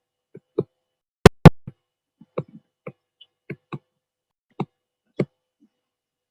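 Short, irregular taps and clicks on a writing surface, about two a second, with two loud sharp clicks close together about a second in.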